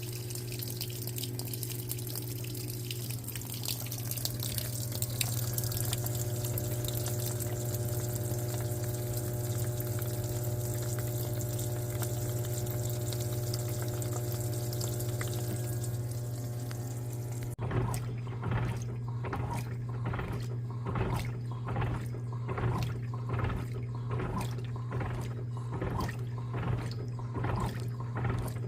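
Electrolux LTA15 top-loading washing machine filling with water. About two-thirds of the way through, the fill stops abruptly and the agitator starts, churning the water in an even rhythm of about one and a half strokes a second. A steady low hum runs under both.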